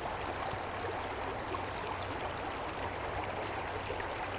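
Mountain stream running: a steady, even rush of water with no change.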